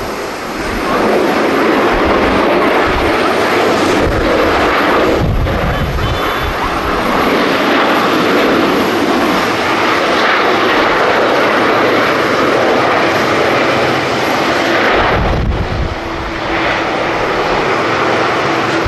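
Jet airliner's engines running loud and steady as the plane passes, a dense rush of jet noise. Gusts of strong wind buffet the microphone with low rumbles a few times.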